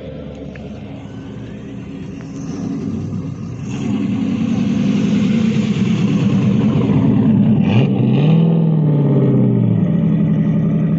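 A car engine running, growing louder about four seconds in, then revved once, its pitch rising and falling back, a little before the end.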